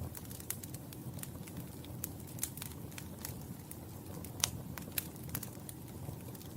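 Fire crackling in a fireplace: irregular sharp pops and snaps over a low, steady rumble of flame, with one louder pop about two-thirds of the way in.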